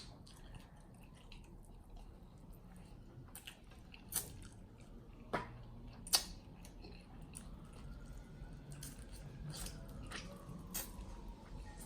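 Close-up chewing of saucy chicken wings, with several sharp mouth clicks and smacks. From about seven seconds in, a police siren wails faintly in the background, its pitch rising and falling slowly.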